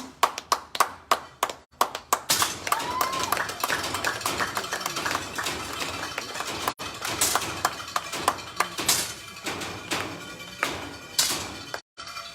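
Clapping: a quick run of sharp claps, evenly spaced at first, then packed densely for most of the stretch before thinning out near the end.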